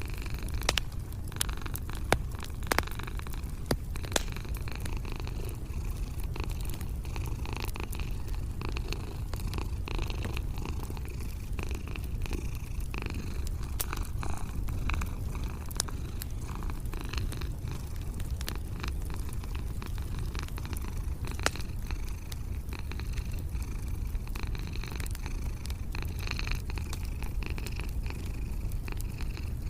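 A cat purring steadily in a low, continuous rumble, over the scattered sharp pops and crackles of a wood fire.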